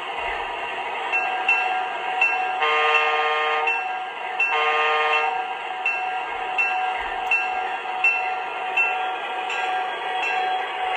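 MTH Propane Turbine model locomotive's onboard sound system: a steady turbine whine, two long horn blasts about three and four and a half seconds in, and a bell dinging about every 0.7 seconds.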